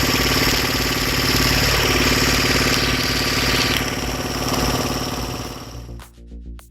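Engine of a hydraulic log splitter running steadily under load, with a short falling tone about a second and a half in. A bright hissing layer stops about four seconds in, and the sound falls away near the end.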